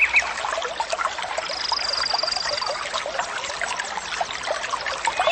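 Small stream trickling and babbling, with a bird calling at the start and end and a high trill lasting about a second and a half near the middle.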